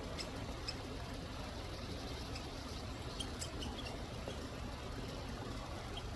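Small birds giving scattered short, high chirps and ticks, most of them bunched together midway, over a steady low background rumble.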